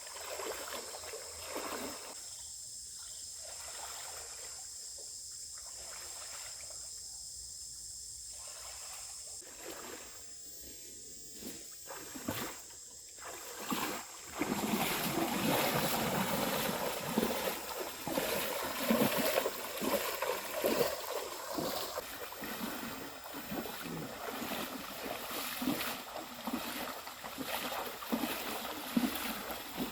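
Water splashing and trickling, quiet and patchy at first, then louder and busier with many small irregular splashes from about halfway through. A steady high-pitched tone runs under the first half.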